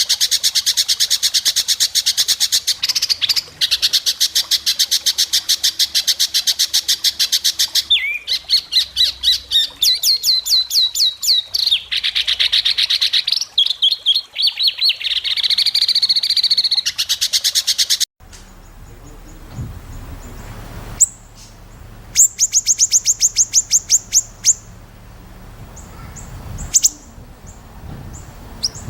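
White-rumped shama singing loud, long runs of rapid, sharp repeated high notes. About two-thirds of the way in the song cuts off abruptly, and quieter calls follow with one brief fast run of notes.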